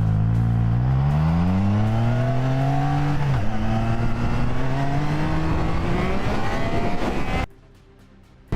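Motorcycle engine accelerating, its pitch rising, then dropping sharply at a gear change about three seconds in and climbing again more slowly. The engine sound falls away abruptly near the end.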